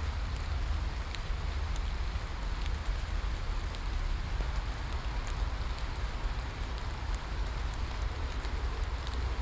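Steady rain falling, an even hiss with scattered drop ticks over a constant low rumble.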